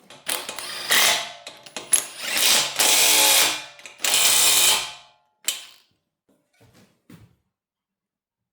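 A bolt fitted with a Nord-Lock washer being run down and tightened: loud mechanical rattling in about five bursts of roughly a second each, then one short burst about halfway through and a few faint ticks.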